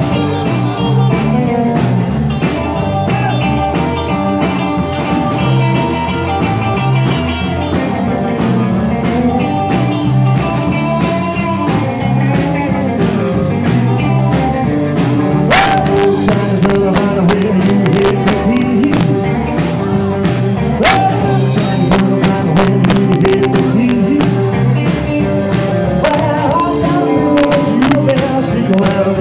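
Live rock and roll band playing, with electric guitar over bass and a steady drum beat.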